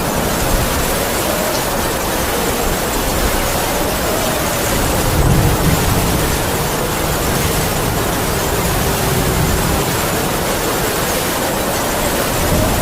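Heavy rain falling steadily with howling wind, its moaning tone slowly rising and falling over a constant rush.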